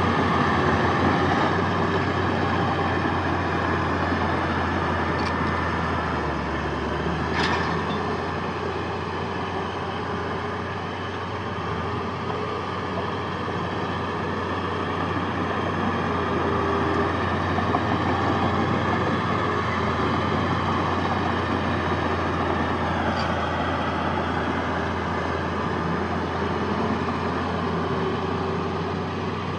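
Heavy diesel engine of earthmoving machinery running steadily, with a brief high-pitched sound about seven seconds in.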